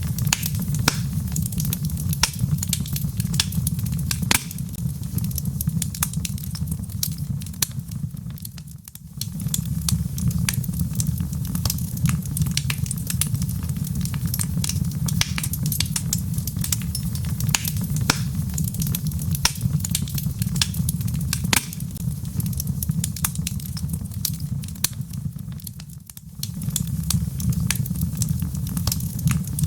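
Wood fire crackling, with many sharp pops and snaps over a steady low rumble of flames. Twice the whole sound briefly fades down and comes back, about nine seconds in and again near the end.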